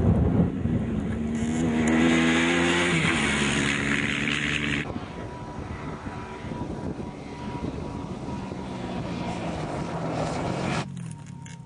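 Rally competitor's engine revving hard as it passes at speed on the stage, then running on more roughly after an abrupt change about five seconds in, cutting off suddenly near the end.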